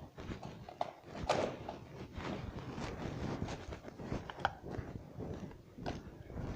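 Footsteps of a person walking, an irregular run of steps and scuffs with a few sharper clicks.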